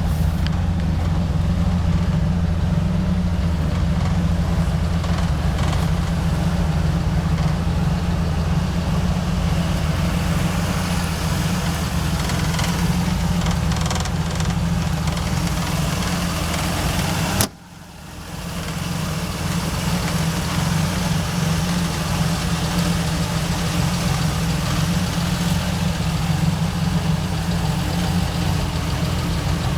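1981 Pontiac V6 engine idling steadily. A little past halfway the sound cuts out abruptly, then comes back over about a second.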